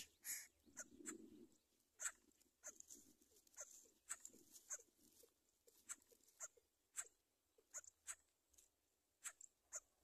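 Faint, short bird chirps that drop quickly in pitch, one or two a second at uneven intervals.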